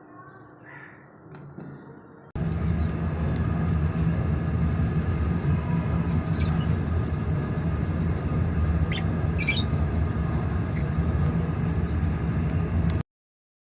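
A steady low mechanical hum starts abruptly a couple of seconds in, with a few short, high chirps from lovebirds over it about halfway through. It cuts off suddenly near the end.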